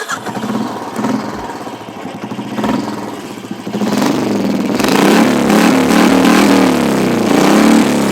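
Royal Enfield Classic 350's single-cylinder engine running through a short bottle aftermarket silencer with two internal filters: a few short throttle blips, then revved up and held higher from about halfway, dropping back near the end.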